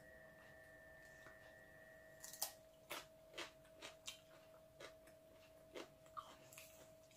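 Faint mouth sounds of someone eating ripe mango slices: a string of soft, wet clicks and smacks spaced irregularly, over a steady faint hum.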